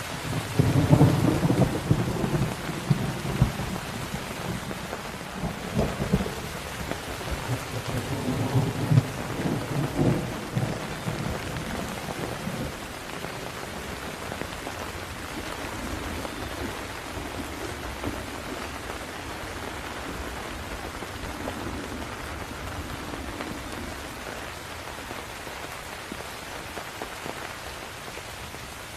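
Steady heavy rain with rolling thunder. A rumble starts about half a second in and is loudest over the first few seconds, then comes back in waves and dies away about halfway through, leaving the rain with only faint distant rumbles.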